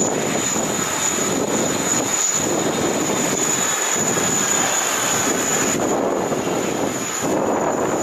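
Jet engines of an Airbus A321neo on landing approach: a loud, uneven rushing roar that surges and dips, with a steady high whine over it.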